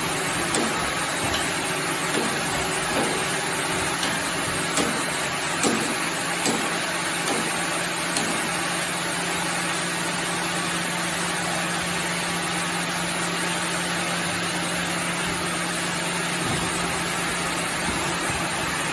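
Sawmill machinery running steadily: a dense mechanical noise with a constant low hum, and scattered short knocks of wood and metal in the first several seconds.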